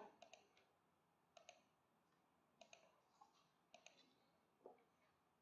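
Faint clicks of a computer mouse, about six short clicks in irregular groups spread over a few seconds.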